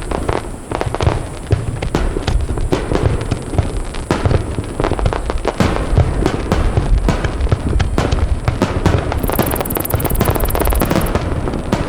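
Aerial fireworks shells bursting in a rapid, continuous barrage: many deep booms overlapping one another with crackling between them.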